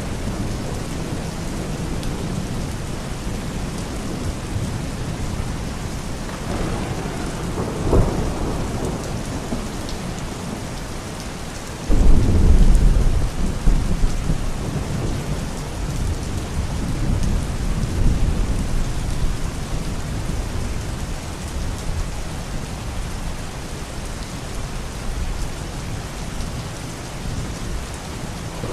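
Steady rain with thunder: a brief sharper clap about eight seconds in, then a loud low rumble that starts suddenly about twelve seconds in and rolls away over several seconds.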